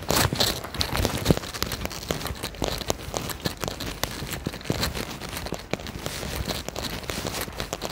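Rain falling, with many sharp patters of drops hitting a surface close by, loudest in the first second or so.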